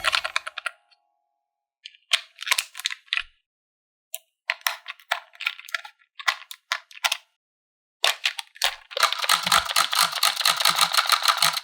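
Toy packaging and plastic playset pieces being handled, rattling and clicking in short bursts, then a dense stretch of crisp rattling from about eight seconds in.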